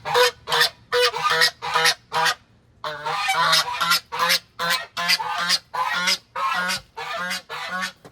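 Domestic goose honking in a rapid, loud run of about three calls a second, with a short break about two seconds in. It is a gander's alarm call, set off by someone near his sitting mate and her nest.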